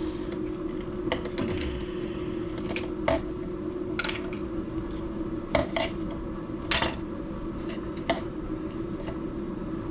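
Kitchen clinks and taps of utensils and containers against a soup pot, about half a dozen scattered strikes over a steady low hum.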